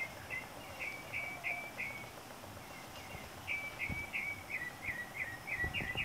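A bird calling a series of short, clear notes, about three a second, pausing for a second or so partway through and then repeating a little faster, over a steady outdoor background hiss.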